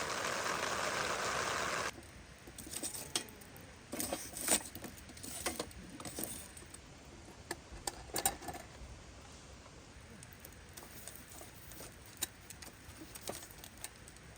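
Heavy rain hissing steadily, cutting off abruptly about two seconds in to a quieter background with scattered small clicks and taps, clustered in the first half of what follows.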